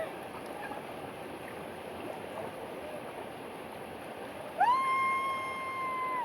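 Steady rush of water at a rainforest waterfall. Near the end a single long, high cry rises, holds one steady pitch for about a second and a half, then falls away.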